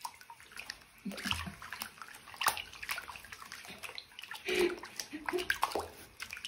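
Water splashing and sloshing in uneven splashes, like water being stirred in a bathtub.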